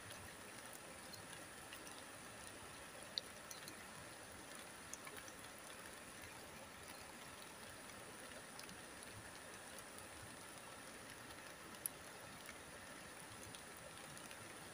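Light drizzle: a faint, steady hiss of rain with scattered drops ticking. Two sharper drop ticks come about three seconds in and again near the end.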